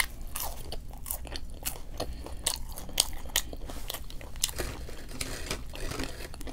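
A person chewing and biting food close to the microphone: a stream of crisp crunches and wet mouth clicks at irregular intervals.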